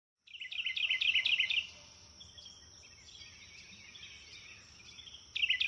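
A songbird singing a fast trill of repeated falling notes, two phrases of about a second each, at the start and again near the end, with a faint steady high whine underneath.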